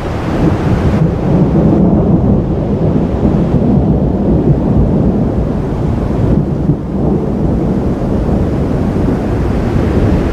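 Rolling thunder: a loud, low, continuous rumble with no sharp crack.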